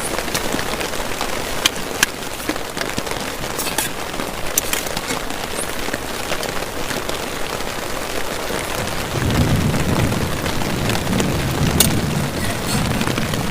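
Heavy rain falling steadily on a camping tarp, with sharp heavier drops striking now and then. About nine seconds in, a low rumble of thunder sets in and rolls on to the end.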